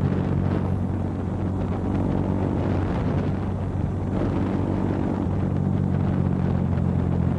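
KTM Duke 200's single-cylinder engine running at a steady road speed, with wind rushing over the microphone.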